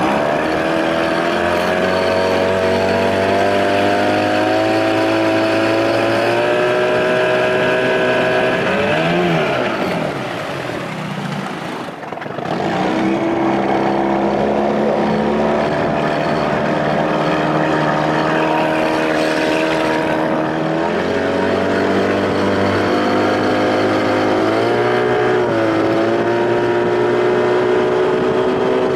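1993 Evinrude 25 hp two-stroke outboard, fitted with a bigger intake, running the boat under way. Its pitch climbs, then twice wavers and dips as the propeller spins out on weeds, picking back up each time.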